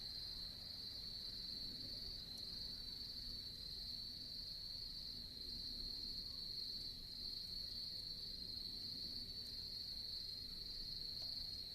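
Insects trilling steadily on one high, unbroken note, with a faint low background hum.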